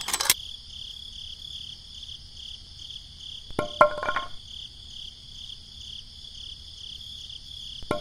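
Crickets chirping steadily in an even pulsing rhythm. Short clusters of light wooden clacks come just at the start, around the middle and again near the end, as bamboo sticks and a toy roof are set into a plastic toy trailer.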